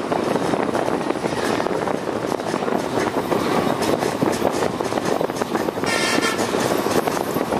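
Passenger train running slowly across the bridge, heard from on board: steady clatter of wheels on rail and rattle of the coach. A brief horn toot sounds about six seconds in.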